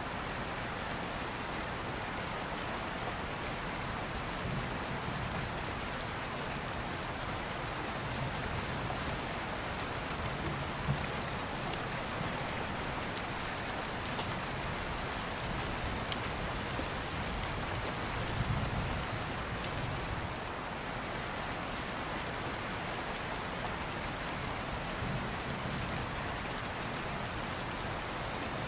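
Steady rain pattering, with low rumbles of distant thunder swelling up several times and a few sharp pops from a crackling open fire.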